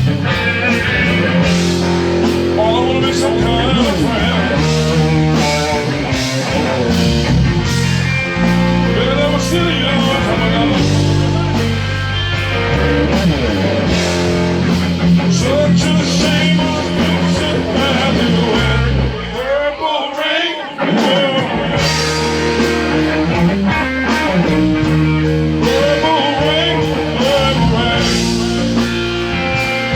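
Live blues-rock band playing: electric guitar lead over steady bass and drums. About twenty seconds in, the bass and drums drop out briefly, leaving the guitar bending notes on its own before the band comes back in.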